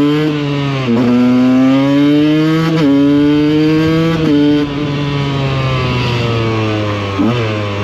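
Small two-stroke supermoto engine accelerating through the gears. The note climbs and drops sharply at each of three upshifts, then holds fairly steady, with a brief dip and blip near the end.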